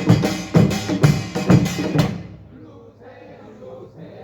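Pungmul percussion ensemble of gongs and drums playing fast, loud beats with ringing metal. It stops abruptly about two seconds in, leaving a low murmur of voices.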